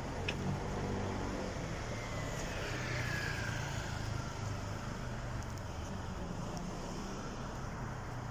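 Street traffic with a vehicle engine running steadily, and a whine that falls in pitch between about two and four seconds in.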